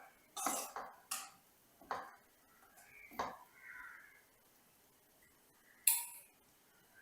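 Kitchenware being handled: about five separate clinks and knocks of utensils against dishes or pots, the sharpest one near the end.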